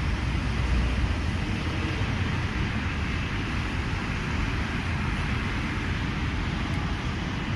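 Steady low rumble of a passenger train on the railway line, with no separate wheel clacks standing out.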